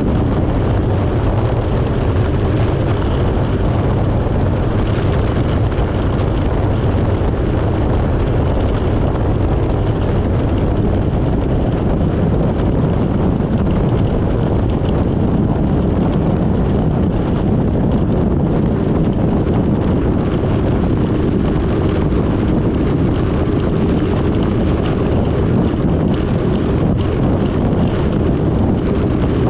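1994 Yamaha Wave Raider jet ski's two-stroke engine running steadily under way; its note climbs higher about ten seconds in and holds there.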